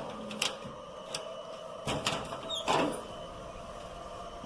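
Several scattered knocks and clicks, the loudest about three seconds in, over a steady faint hum.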